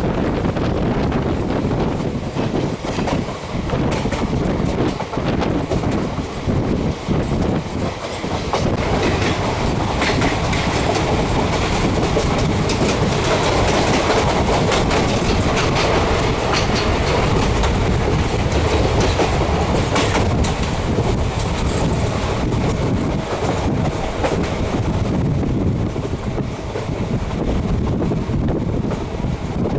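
Passenger train running, heard from on board: a steady rumble with the wheels clattering over the rail joints.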